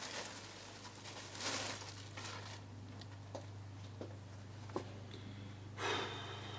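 Quiet room tone with a steady low hum, a few faint clicks and soft short rustling noises.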